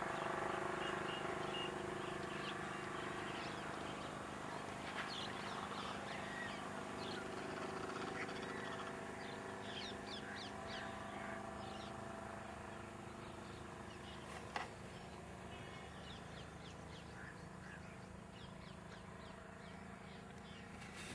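Birds calling outdoors, a scatter of short high calls that thin out after the middle, over a steady low hum that slowly fades. A single sharp click sounds about two-thirds of the way through.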